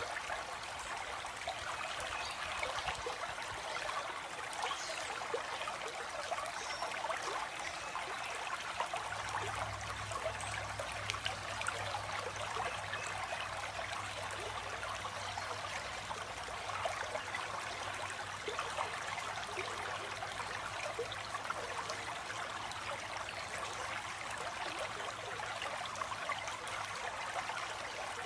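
Stream flowing over stones, a steady babble of water with many small splashes and trickles. A low steady hum comes in about a third of the way through.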